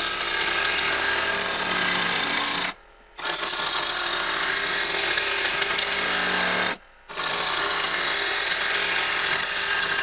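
Bowl gouge cutting a spinning cherry bowl blank on a lathe in a push cut: a loud, steady hiss and rasp of wood being sheared away over a faint hum. The sound cuts off abruptly twice, for a fraction of a second each time.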